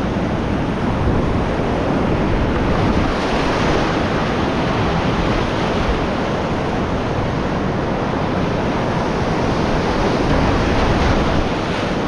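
Steady rush of whitewater in a creek rapid, an even noise with no breaks, partly wind buffeting the microphone.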